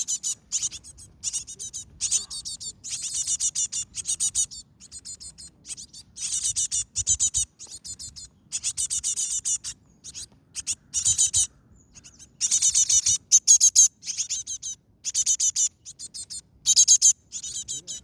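Baby Asian tits chirping: high, rapid calls in repeated bursts of about half a second to a second each, with brief pauses between.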